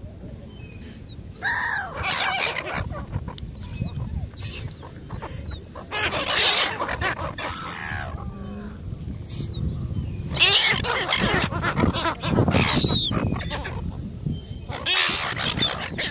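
Gulls squabbling over food, giving harsh squawking calls in repeated loud bursts, with short high squeals in between.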